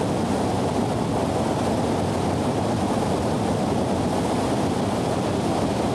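Niagara Falls' water plunging into the basin below: a deep, steady rush of heavy falling water that does not change.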